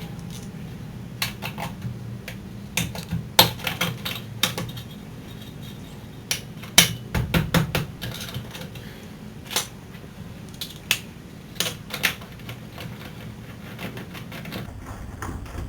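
Irregular metallic clicks and clinks of a socket wrench and tools working on the brake caliper bolts, some in quick little clusters. A steady low hum runs underneath.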